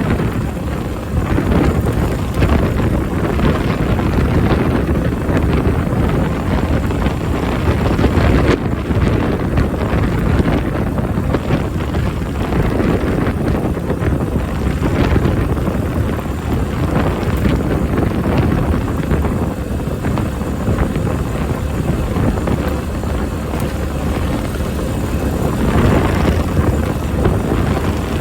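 Honda Benly CS90's small single-cylinder four-stroke engine running while the bike is ridden, mixed with strong wind buffeting the microphone.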